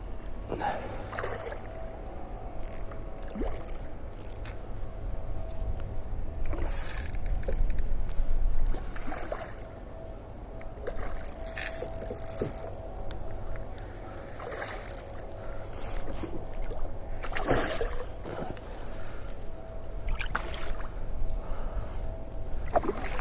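Sounds of a hooked fish being fought from a kayak: a steady low rumble with scattered splashes and knocks against the kayak.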